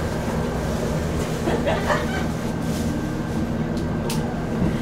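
Cabin noise inside a moving Kintetsu Minami Osaka Line electric train: a steady rumble and hum of the running car, with two short sharp clicks near the end.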